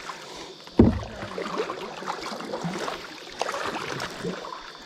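Kayak paddling on a river: paddle strokes splashing and dripping in the water. A single sharp thump about a second in.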